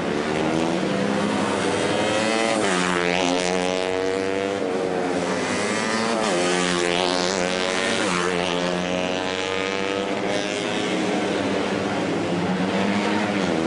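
Racing motorcycle engines revving hard, their pitch rising and falling several times as bikes accelerate, shift and pass.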